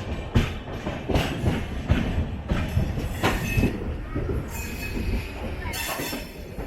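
Wheels of a moving LHB passenger coach rumbling and clattering over rail joints and points at low speed, with irregular knocks. A short high wheel squeal comes about three seconds in.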